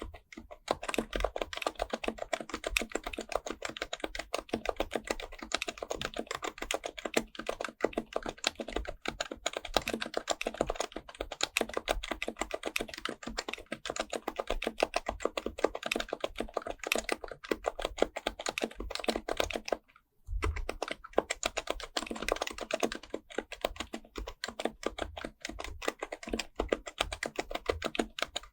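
Typing on an HHKB Professional Type-S, a silenced Topre electrostatic-capacitive keyboard: a fast, continuous run of soft keystrokes, with one short pause about two-thirds of the way through.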